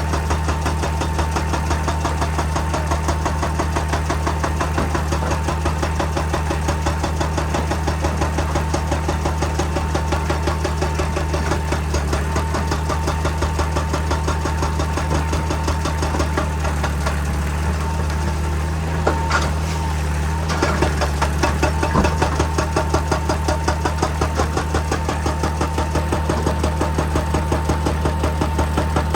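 Heavy excavator working: its diesel engine running steadily with a fast, even pulsing, and a few sharper knocks about two-thirds of the way through.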